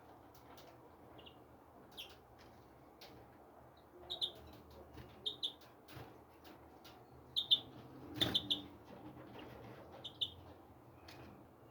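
Small wild birds giving short, scattered chirps, singly and in quick pairs, with a brief knock about eight seconds in.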